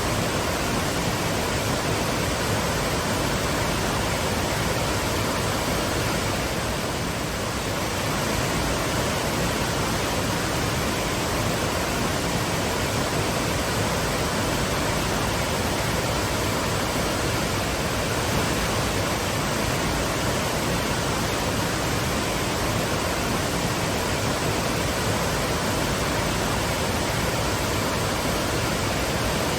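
Waterfall: a steady full rush of water falling, even in level throughout, dipping slightly for a moment about seven seconds in.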